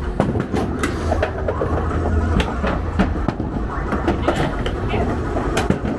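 Skee-ball balls rolling down the lanes with a steady low rumble, and irregular clacks as they hop and drop into the scoring rings.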